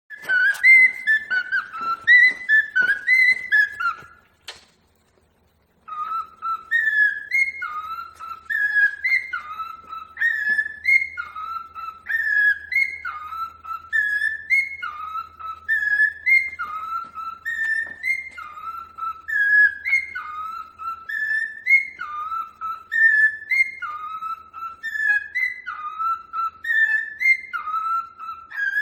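Cockatiel whistling loud, clear notes. After a quick run of notes and a short pause, it repeats a short falling phrase over and over, about once a second.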